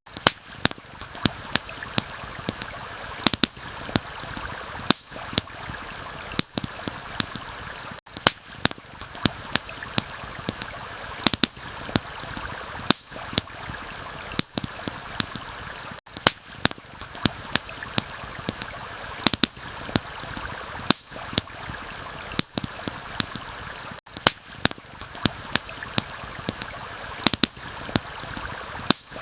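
A steady rush of flowing stream water under frequent sharp crackles and pops from a wood campfire. The mix repeats as a loop about every eight seconds.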